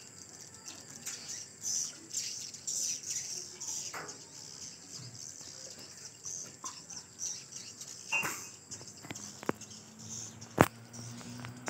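Swiftlets twittering: a stream of short, high chirps, with one sharp click near the end.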